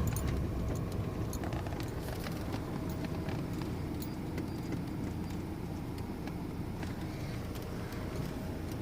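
A car driving along a field road, heard from inside the cabin: a steady low rumble with light rattles and clicks.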